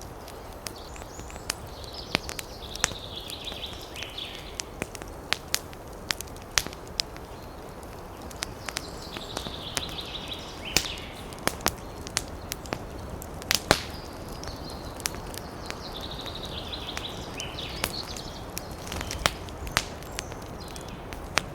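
Wood fire in a fireplace crackling: sharp pops and snaps at irregular intervals over a steady low rumble of flame, with a higher hiss that rises and fades three times.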